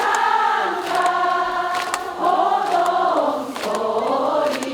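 Crowd of audience members singing a line of a trot song together in unison, with backing music.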